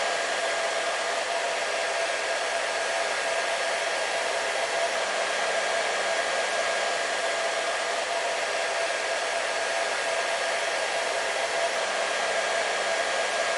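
Hair dryer running steadily: an even rush of blown air over a constant motor hum, with no change in speed or level.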